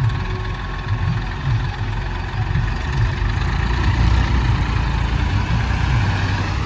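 Diesel engine of a JCB backhoe loader running at low revs, a pulsing low rumble that grows slightly louder about halfway through.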